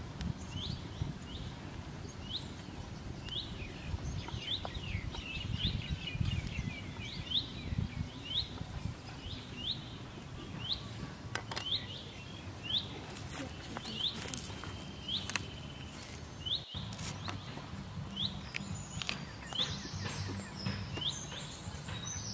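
A bird repeating a short rising chirp about once a second, over a steady low outdoor rumble. A few sharp taps come in around the middle.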